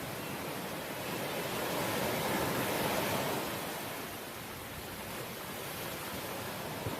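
Sea waves washing on the shore. A wave swells and breaks about two seconds in, then its hiss eases back down.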